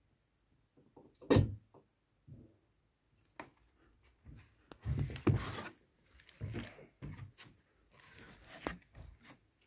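Knocks, thumps and scuffling of a cat pouncing after mice on a hard surface: a loud thump about a second in, a burst of scuffling around five seconds in, and a sharp knock near the end.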